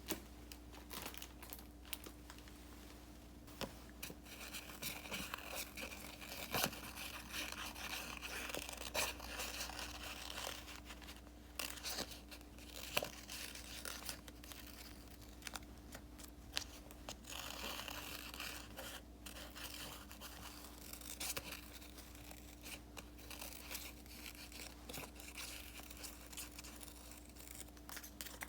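Paper stickers being peeled and torn from their sheets, with paper rustling and light taps and clicks as they are handled and placed. There are two longer stretches of rustling, about five seconds in and again near seventeen seconds.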